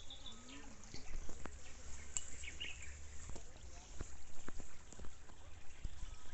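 Forest ambience with a few short bird chirps, scattered soft knocks and a steady low rumble.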